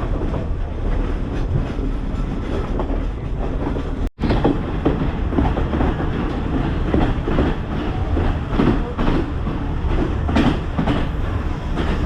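Passenger train running along the track, the wheels clacking over the rail joints with a steady rumble. The sound cuts out briefly about four seconds in.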